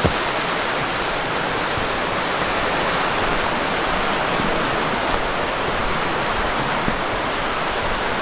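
Rocky creek running with a steady rushing of water over stones.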